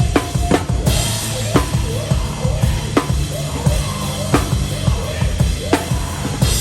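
Heavy hardcore band playing live, the drum kit loudest. Fast bass-drum kicks drive a slow half-time groove, with a snare crack about every second and a half under a wash of Meinl cymbals and pitched instruments.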